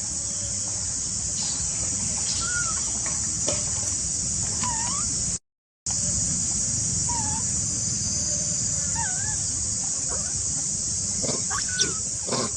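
Outdoor animal ambience: a steady high hiss with a low rumble under it, and short, pitch-bending chirping calls every second or two. The sound drops out completely for half a second a little before the middle.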